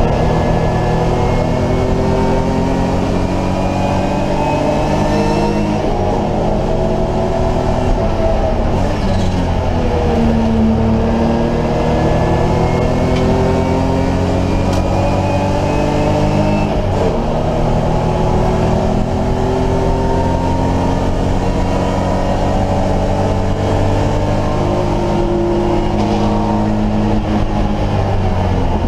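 BMW E30 race car's engine heard from inside the cockpit at racing speed. Its pitch climbs repeatedly through the gears and drops sharply under braking about ten seconds in and again around seventeen seconds.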